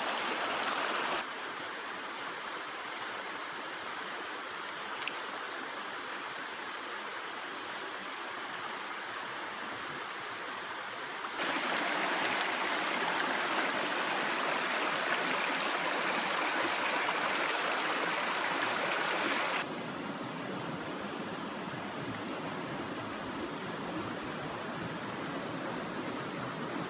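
Creek water running over rocks, a steady rush. It jumps abruptly louder for about eight seconds in the middle, then drops back just as suddenly.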